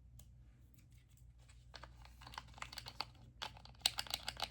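Rapid small clicks and taps of fingers and nails on a plastic cosmetic container as a new, unopened face primer is handled and opened. The clicks are sparse at first and grow busier and louder over the last couple of seconds.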